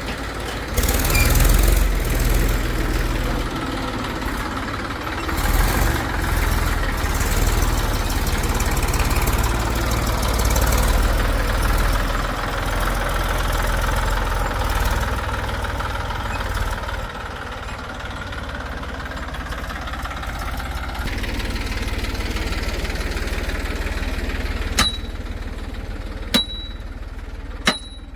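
Heavy diesel engine of a backhoe loader or tractor running under varying load, the rumble rising and falling, then settling to a quieter, steadier run about two-thirds of the way in. Near the end, three sharp clicks or clinks.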